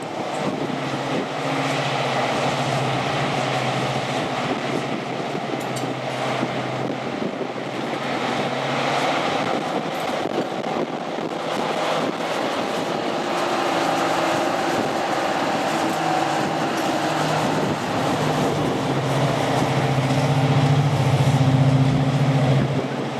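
Diesel locomotive engine running with a steady drone that grows louder near the end.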